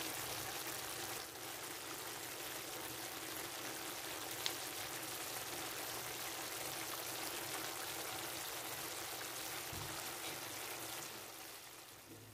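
Chicken adobo sizzling in a pan: a steady, even hiss that dies away near the end.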